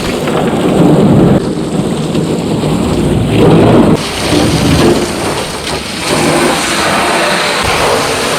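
Water spraying hard onto the inside of an aluminium boat hull: a loud, steady rush that starts abruptly and swells and eases every second or two.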